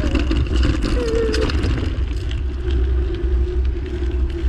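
Wind buffeting the microphone on a moving bicycle, with the bike rattling and clicking as it rides over rough ground off-road.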